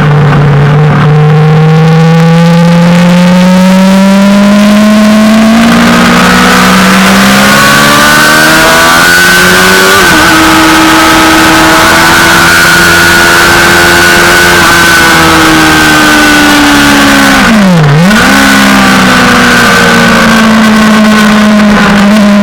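Suzuki GSX-R600 inline-four sportbike engine at high revs on a track, the pitch climbing steadily, dropping at a gear change about ten seconds in, then holding. Near the end the revs dip sharply and recover within half a second.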